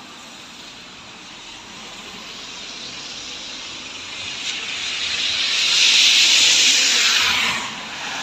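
Heavy rain hissing, swelling to a loud peak about six seconds in and then dropping off sharply near the end.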